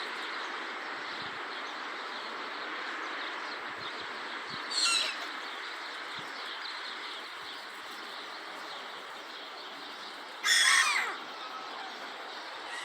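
A gull calls loudly twice: a short call about five seconds in and a longer one near the end. Faint chirping of sparrows and steady background noise run underneath.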